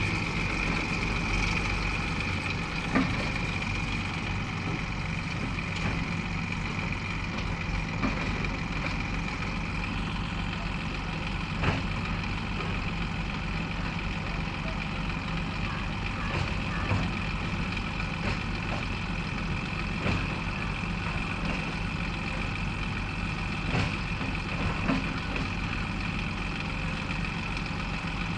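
JCB 3DX backhoe loader's diesel engine running steadily, with a constant high whine over it and a few sharp knocks scattered through.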